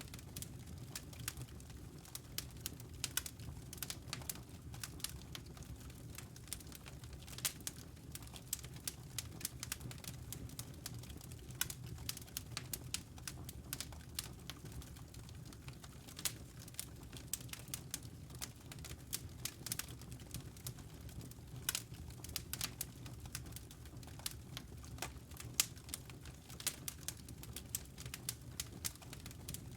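Fire crackling in a fireplace: irregular sharp pops and snaps over a low steady rumble of burning.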